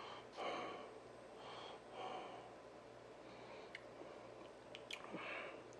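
Faint close-up chewing and breathing through the nose, in soft puffs about a second apart, with a few light clicks near the middle.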